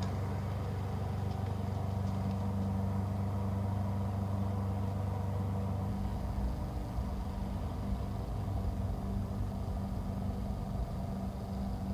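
A steady low engine-like hum, as of a motor running at idle; its deepest tone shifts about halfway through.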